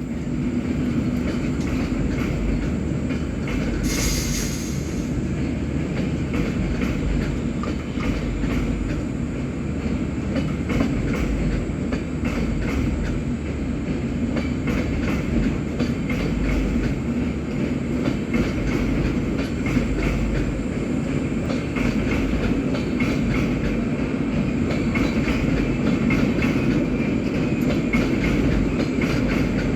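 Train running along the track, a steady rumble with wheels clattering over the rails. A brief hiss about four seconds in.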